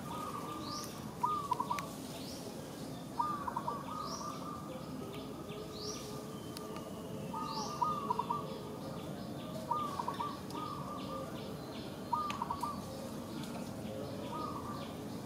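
Wild birds calling: a short call of a few quick notes repeats about every two seconds, with higher, shorter rising chirps in between over a steady background hiss.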